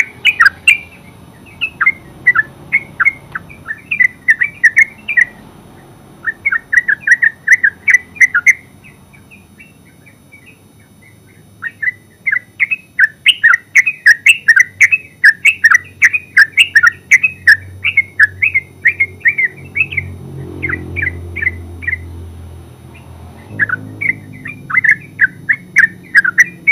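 Yellow-vented bulbul singing: bursts of rapid, bubbling notes in phrases of a few seconds each, with a pause of about three seconds in the middle.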